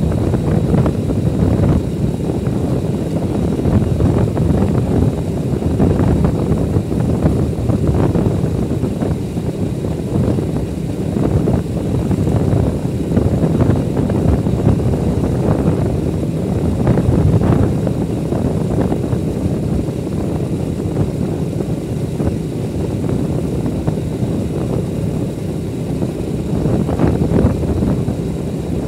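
Motorcycle running on the move: a steady, loud low rumble.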